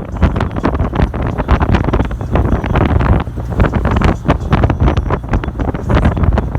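Heavy wind buffeting the microphone in irregular gusts, over the low rumble of a moving vehicle.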